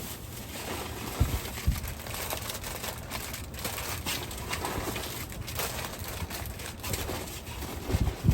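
Rummaging through dumpster trash: rustling and crinkling of plastic bags and snack packaging with scattered small clicks, and a few short low sounds about a second in and again near the end.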